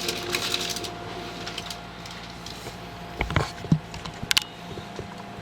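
Steady ride noise inside a passenger train carriage with a faint even hum, broken by a few short knocks about three seconds in and one more over a second later.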